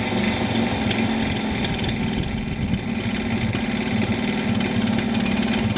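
Piaggio Ciao moped's 49 cc two-stroke single-cylinder engine idling steadily, left running with the fuel cock shut so it uses up the fuel in the carburettor.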